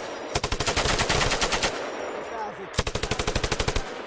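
7.62 mm M240 machine gun firing in two rapid bursts, the first about a second and a half long and the second about a second, with echo ringing out between them.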